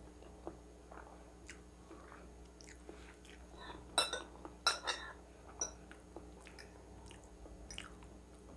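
Close-miked eating sounds: soft chewing of carbonara pasta with small wet mouth clicks. A metal fork and spoon clink sharply on a ceramic plate several times about four to five seconds in, and once more near the end.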